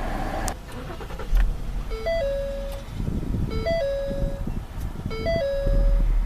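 The 2013 Ford Taurus Limited's dashboard warning chime: a three-note tone, low, high, then a held middle note, repeating three times about every one and a half seconds, over the just-started engine's steady idle.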